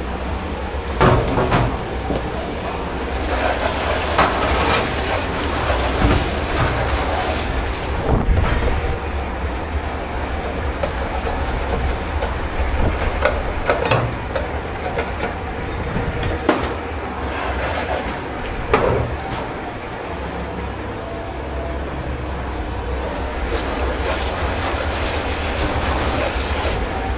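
Dish-pit work in a commercial kitchen: a steady low machine rumble under scattered clatters and knocks of crockery, with three spells of high hiss a few seconds long.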